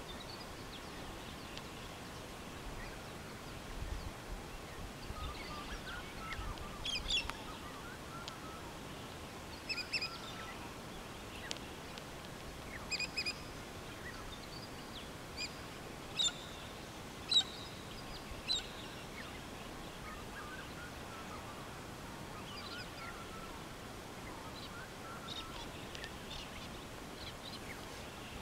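Wild birds calling on and off: short, high chirps and squawks in scattered clusters over a faint steady outdoor background.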